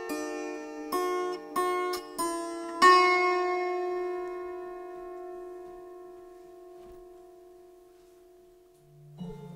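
Music: a plucked string instrument playing a short run of single notes, the last one left ringing and slowly dying away over several seconds. A new, lower sound begins just before the end.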